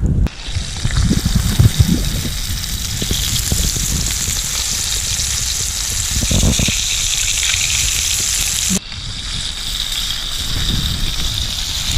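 Perch frying in a pan over a campfire: a steady sizzle of hot fat, with a few low knocks underneath. It cuts off abruptly about nine seconds in and starts again slightly quieter.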